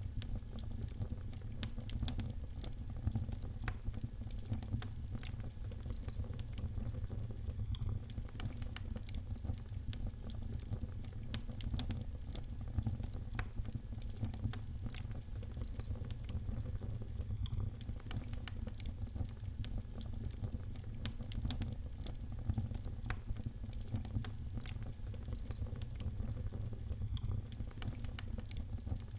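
Wood fire crackling in a fireplace: many small, irregular pops and snaps over a steady low rumble.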